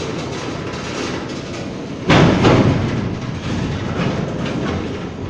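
Freight train wagons rattling and clattering as the train moves slowly, with one loud metallic clank about two seconds in.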